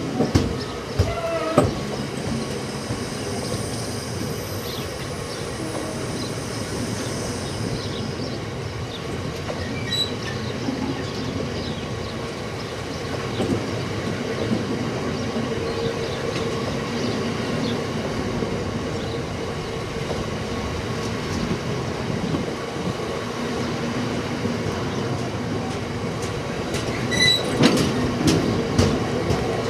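Cement tank wagons of a freight train rolling past: a steady rumble of steel wheels on the rails with clicks and clatter as the wheels cross rail joints, thickest about a second in and again near the end.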